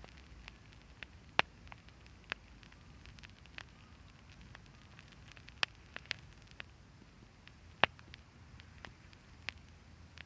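Wood fire crackling, with irregular sharp pops over a low steady hiss; the two loudest pops come about a second and a half in and near eight seconds.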